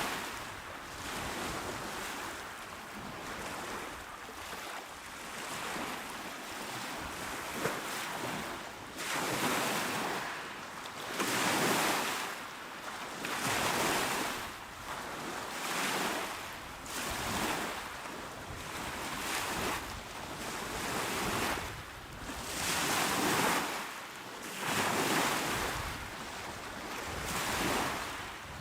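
Small, calm sea waves washing onto a shore, each wash of surf swelling and fading about every two seconds. The washes are softer and run together at first, then come in more distinct surges.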